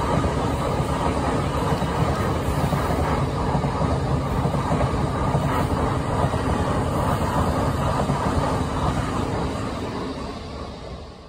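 Thameslink Class 700 electric multiple unit passing at speed: steady noise of wheels running on the rails, fading in the last two seconds as the rear carriages go by.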